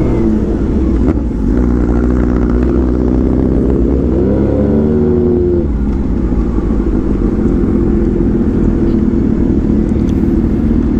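Motorcycle engines running hard on the open road, with a low rumble of wind. About four seconds in, one engine's pitch climbs and then drops away.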